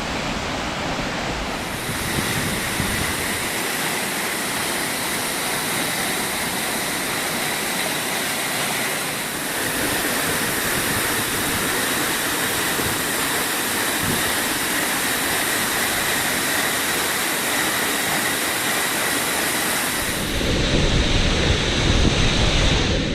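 Waterfall pouring, a steady rush of falling water. About three seconds before the end it grows louder and deeper.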